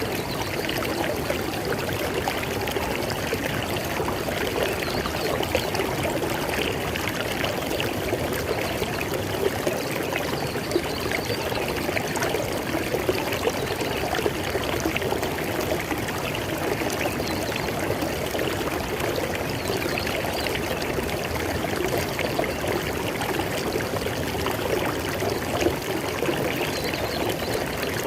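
River water flowing over rocks, a steady rushing and splashing.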